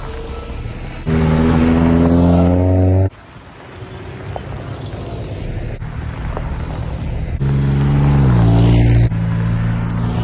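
Car engine revving hard, its pitch climbing for about two seconds and then cutting off suddenly, with lower engine and road noise after it. A second hard rev about seven seconds in falls in pitch as the revs drop.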